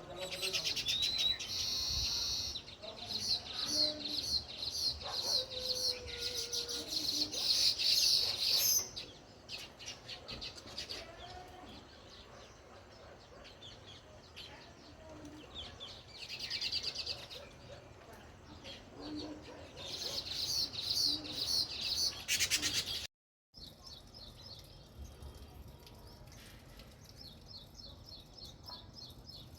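House sparrows chirping in rapid runs of short repeated chirps, loudest through the first nine seconds, then in shorter bouts. The sound drops out for a moment about 23 seconds in, and fainter chirping follows.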